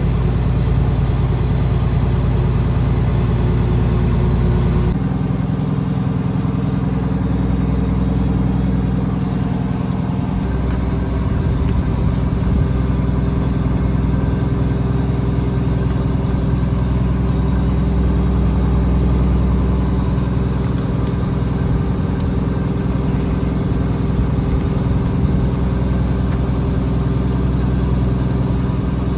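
Fishing boat engine running steadily. There is an abrupt shift in its tone about five seconds in.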